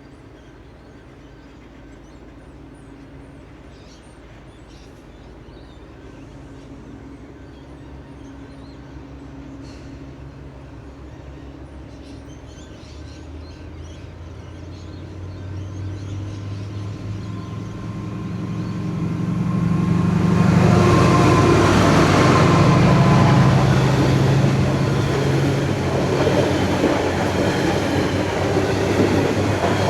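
Diesel locomotive hauling a narrow-gauge sugar train, approaching and passing: the engine grows steadily louder from about halfway, is loudest a little after two-thirds of the way, then the rolling wagons keep up a steady rumble with some clickety-clack.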